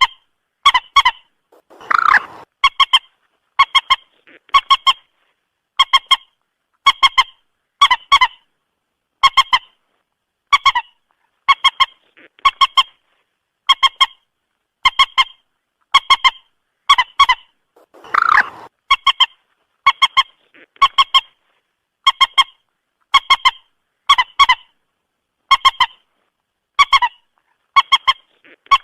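Moorhen calls: short, sharp honking notes, mostly in pairs, repeated about once a second, with a longer, harsher call about 2 seconds in and again about 18 seconds in. This is a repeating call recording of the kind played to lure moorhens to a trap.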